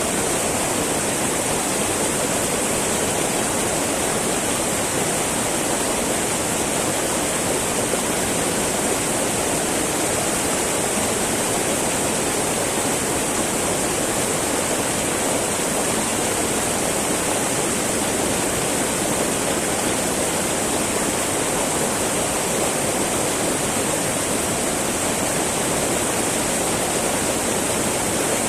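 Small mountain river babbling and rushing over rocks, a steady, unbroken flow of water.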